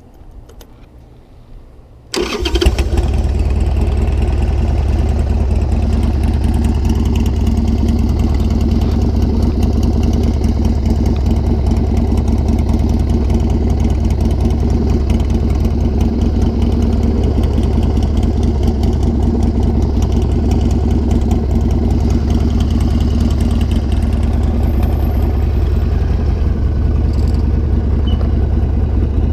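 A 1996 Harley-Davidson Sportster 1200's air-cooled V-twin engine starts about two seconds in and then idles steadily.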